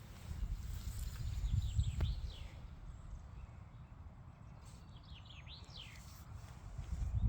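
Small birds chirping in two short bursts of quick downward-sweeping calls, about a second in and again past the middle, over a low rumble.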